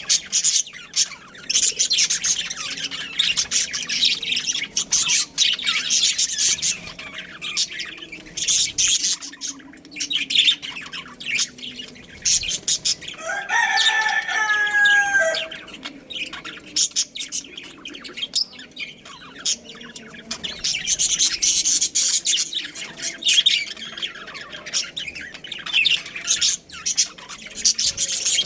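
Budgerigars chirping and chattering continuously in quick, high-pitched bursts. About halfway through, a single longer, lower call of about two seconds breaks in: a rooster crowing.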